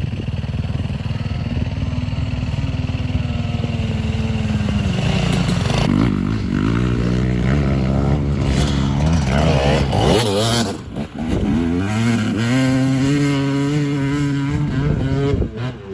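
Dirt bike engine running under way, revving up and down with the throttle, with a brief drop in level about eleven seconds in.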